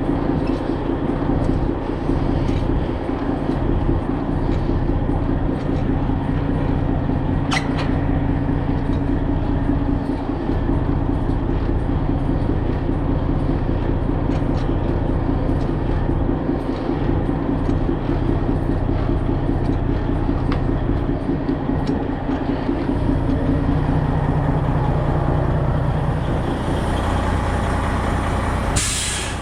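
Semi truck's diesel engine idling steadily, with a few scattered clicks and a brief burst of hiss near the end.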